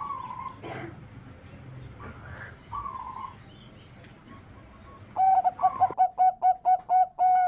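Zebra dove (perkutut) cooing: a few faint short calls, then about five seconds in a loud, rapid run of short staccato coos, roughly five a second.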